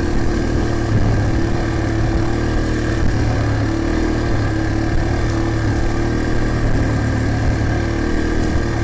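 Dirt bike engine running at a fairly steady speed, its pitch holding level with small rises and dips.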